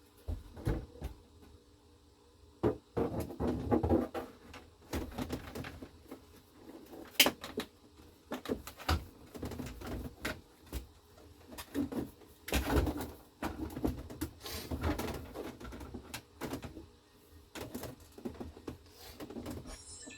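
Irregular clicks, knocks and scraping of plastic dashboard trim pieces being handled and fitted back into place, with one sharp click about 7 seconds in.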